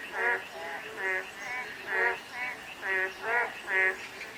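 Frogs calling: a continuous run of short croaks, two or three a second, from at least two frogs at different pitches answering each other.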